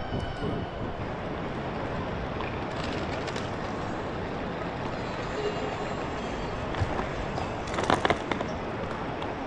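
Metro train running: a steady rumble and hiss of the ride, with a brief rattle of clatter about eight seconds in.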